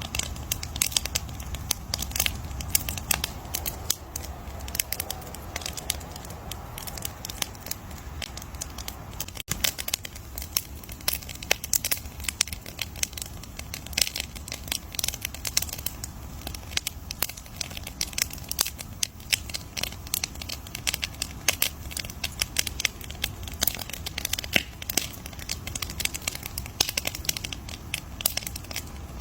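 Campfire burning, with dense, irregular crackling and popping of the wood over a low steady rumble.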